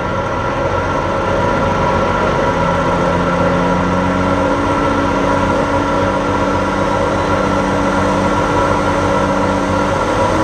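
Light super stock pulling tractor's engine running at full power down the track, a loud steady drone whose pitch creeps slowly upward.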